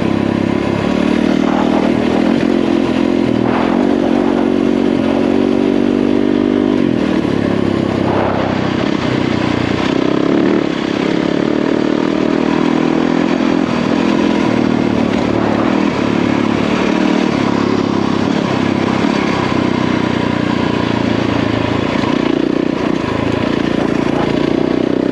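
Yamaha WR450F dirt bike's single-cylinder four-stroke engine running under way. Its pitch rises as it accelerates from about four to seven seconds in, then rises and falls with the throttle, with a few short knocks along the way.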